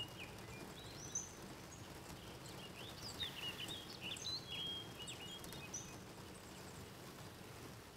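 Faint outdoor ambience: small birds giving many short chirps and twitters, busiest a few seconds in, over a steady low background noise.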